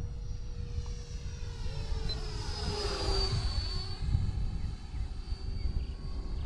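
Electric ducted-fan RC F-86 jet model making a fly-by: its high fan whine swells and drops in pitch as it passes about three seconds in, then carries on steadily. Wind buffets the microphone with a low rumble throughout.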